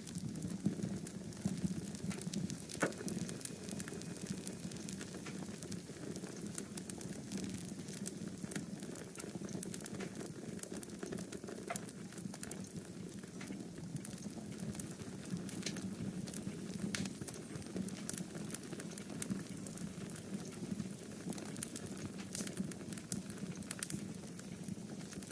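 Wood fire in a fireplace crackling: irregular sharp pops and snaps over a steady low rushing hiss.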